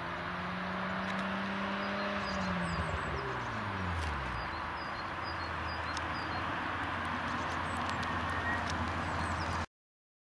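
BMW E36 325i's 2.5-litre straight-six, stock apart from a K&N intake, held at steady revs, then dropping away over about two seconds and settling to a steady idle. It cuts off suddenly near the end.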